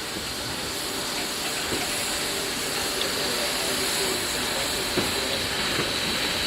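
Narrow-gauge steam locomotive hissing steam as it backs its train out, growing steadily louder, with a few light clicks.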